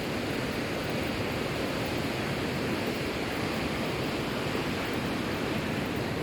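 Steady, even rush of falling water from the Lower Duden Waterfall.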